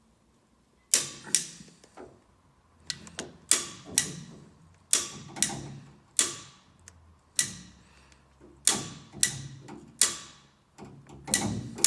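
Hand ratchet wrench clicking in sharp metallic strokes, singly or in pairs about once a second, as nuts are run down on a VW air-cooled engine.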